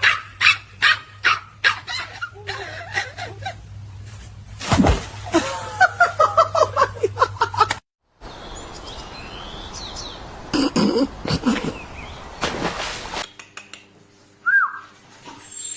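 A dog barking in quick repeated barks, about three a second, for the first two seconds. A thump follows, then short pitched cries and, after a cut, a hissing stretch with a few louder sounds.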